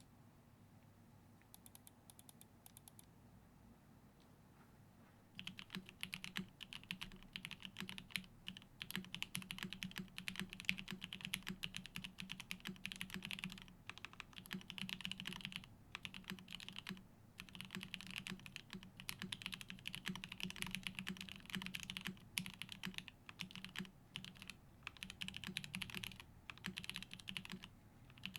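Typing on a TGR 910 ME mechanical keyboard: lubed Opblack switches on a top-mounted carbon-fibre plate with no foam, under GMK keycaps. A few light clicks come about two seconds in, then fast continuous typing starts about five seconds in, with short pauses.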